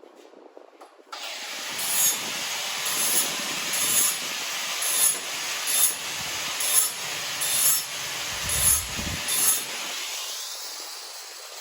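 Angle grinder or sander working steel, starting about a second in and swelling in regular strokes about once a second, then winding down toward the end.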